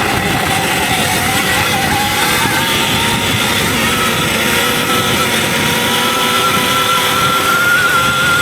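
Electric dirt bike riding on a trail: the electric motor's whine falls slightly early on, then rises slowly in the second half as the bike picks up speed. Steady rushing and rumbling noise from wind and the ride runs under it.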